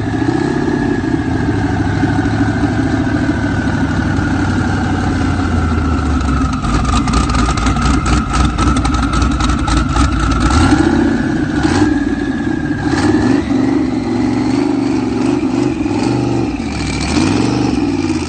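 Twin-turbocharged 6.0 LS V8 in a Nissan Patrol running, its note sagging and rising gently, with a thin high whine above the rumble. A patch of rapid crackles comes about seven seconds in and lasts some four seconds.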